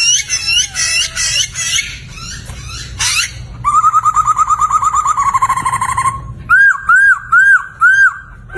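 Poksay (laughingthrush) singing a varied song: quick repeated whistled notes, then a fast trill of about eight notes a second, then four slurred, arching whistles near the end.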